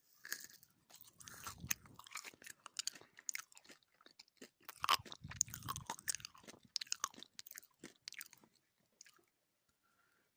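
Close-miked chewing of gummy candy: wet, sticky mouth sounds and smacking clicks, dense and irregular, fading out about a second before the end.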